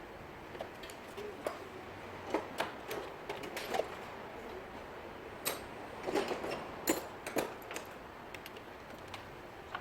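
Irregular light clicks and metallic clinks from tools and parts being handled during repair work, over a steady background hiss.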